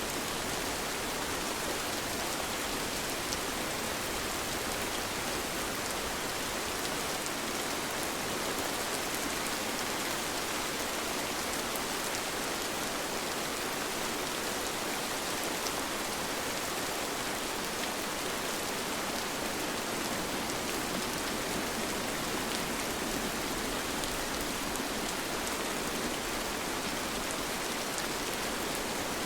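Steady rain falling, a dense even hiss with scattered fine drop ticks on a surface.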